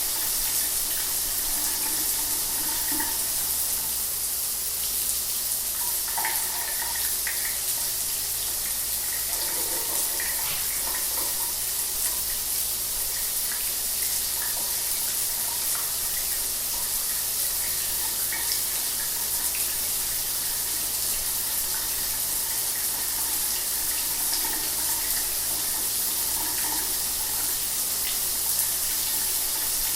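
Shower water running steadily: a continuous hiss of spray, with small splashes coming and going in it.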